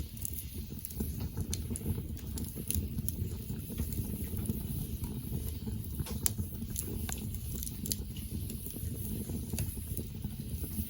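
Wood campfire burning: a steady low rumble with scattered sharp crackles and pops of the burning wood.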